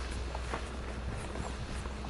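Footsteps, a few soft steps, over a steady low hum.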